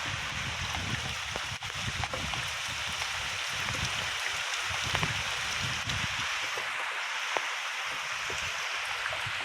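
Steady rain falling: an even hiss with scattered sharp ticks of drops and irregular low rumbling underneath.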